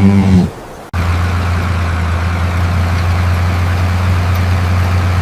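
Tractor engine sound effect: a brief engine rev that cuts off abruptly under a second in, followed by a steady idle.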